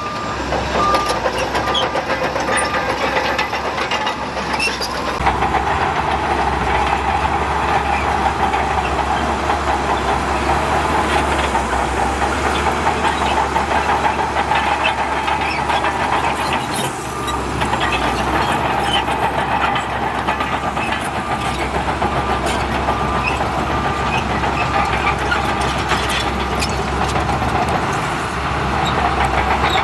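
Heavy earthmoving machinery at work: a diesel engine running steadily under load, with scattered metallic knocks and clanks.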